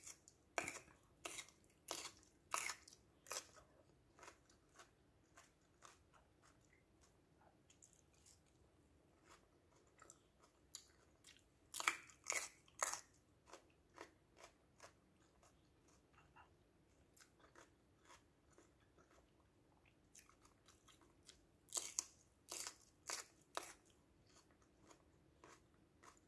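Crunching and chewing of crisp raw yellow bell pepper slices, bitten off and chewed close to the microphone. The crunching comes in three loud clusters, at the start, about halfway through and near the end, with softer chewing in between.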